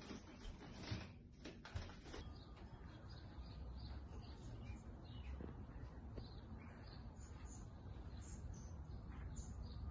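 Faint outdoor birdsong: repeated short, high chirps over a low, steady background rumble. Before that, in the first two seconds, come a couple of sharp knocks.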